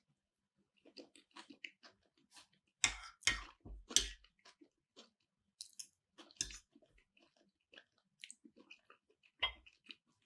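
Close-miked chewing and biting of keto sushi made with nori and cauliflower-cheese rice: irregular wet mouth clicks and soft crunches, with a cluster of louder bites about three seconds in.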